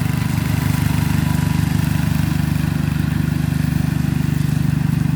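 Craftsman 14 HP OHV riding lawn tractor engine running steadily while mowing, a constant low, even hum with no change in speed.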